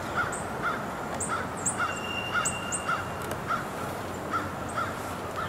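Birds calling: a short call repeated about twice a second, with high thin chirps over it.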